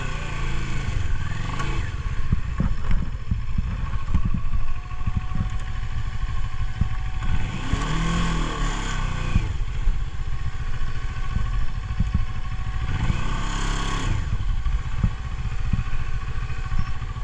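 Motorcycle engine running on a dirt trail, surging up three times, at the start, about 8 seconds in and near the end, with clattering knocks throughout.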